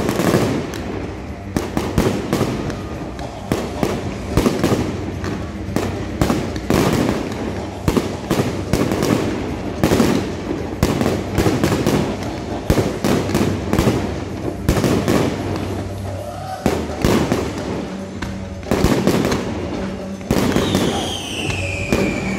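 Fireworks display: a dense, irregular string of bangs and crackles from bursting shells and spark fountains, with music playing underneath. A falling whistle sounds near the end.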